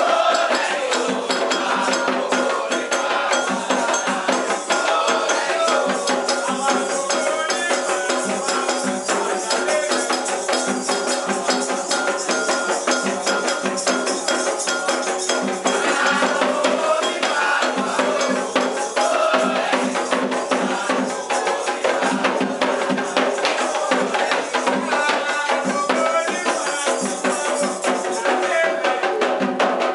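Candomblé ritual music: rattles and shakers with hand percussion keep a steady, dense rhythm under voices singing.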